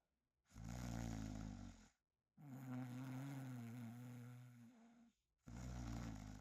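Snoring in three breaths with short silences between: a rattling snore about half a second in, a long steady droning one lasting nearly three seconds, and a short one near the end.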